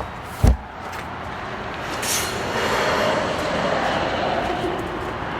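A single sharp thump about half a second in, then the steady rushing noise of a passing road vehicle, building from about two seconds in.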